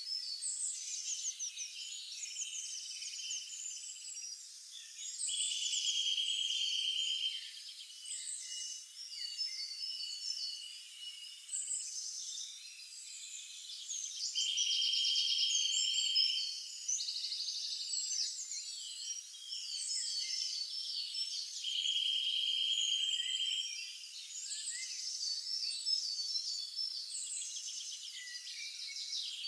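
A chorus of songbirds chirping and warbling, many short calls overlapping. A buzzy trill about two seconds long comes back three times, roughly every eight seconds.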